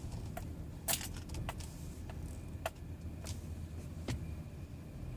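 Chevrolet Avalanche pickup's engine idling, a steady low rumble heard from inside the cab, with a handful of light clicks and taps scattered through it.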